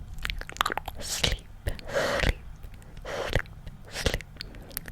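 ASMR mouth sounds: many quick wet clicks and smacks of the tongue and lips, with a few soft breathy bursts between them.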